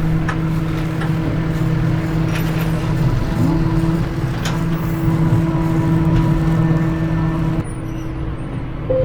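John Deere tractor engine running steadily at an even speed, with a few light clicks and knocks over it.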